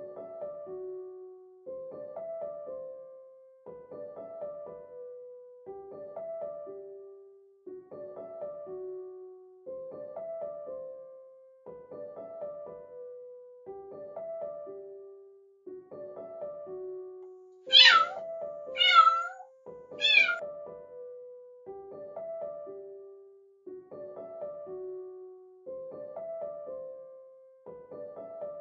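Kitten meowing three times in quick succession, high-pitched calls about a second apart, over gentle repeating piano music.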